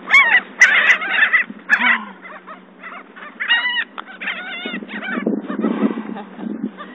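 A flock of birds calling while being fed: loud, short calls in the first two seconds, then a few more about three and a half to four and a half seconds in.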